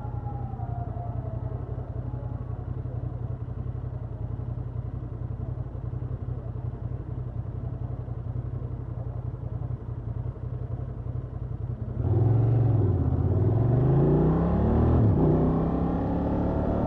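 Honda XL750 Transalp's parallel-twin engine with stock exhaust idling steadily. About twelve seconds in it opens up and pulls away, louder, its revs rising, dropping back and rising again.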